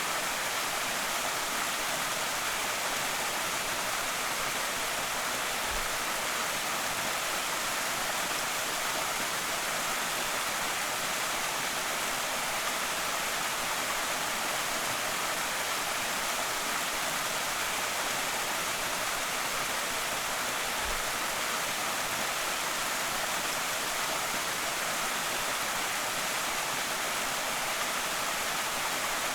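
Creek waterfall pouring steadily: an even, unbroken rush of water, mostly hiss with little low rumble.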